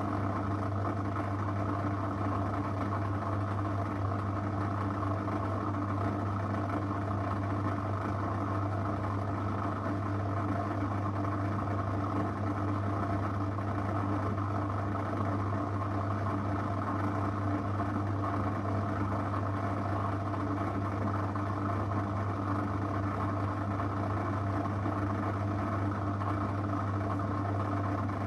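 Zanussi FL984CN front-loading washing machine running mid-cycle: a steady mechanical hum with a strong low drone.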